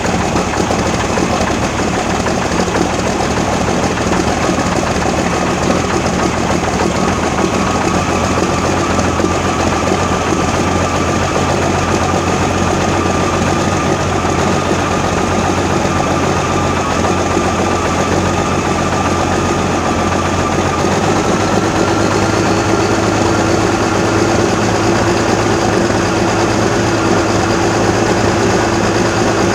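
Old truck's engine idling steadily just after a cold start in about 14-degree frost, with no block heater plugged in. About two-thirds of the way through, the engine speed rises a little and holds.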